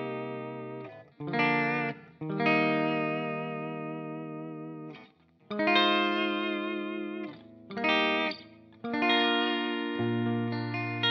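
Two-humbucker Telecaster-style electric guitar playing a slow series of chords through an effects chain, each chord struck and left to ring and fade, with a slight waver in the sustained notes. A lower, fuller note comes in near the end.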